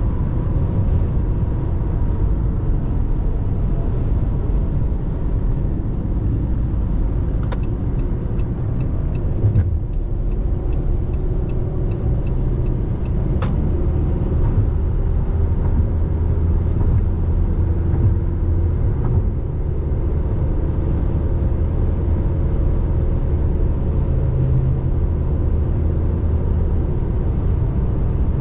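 RAM Rampage Rebel's 2.2 turbo diesel engine and road noise while driving, a steady low rumble. Faint, evenly spaced ticks run through the middle, with a couple of short clicks.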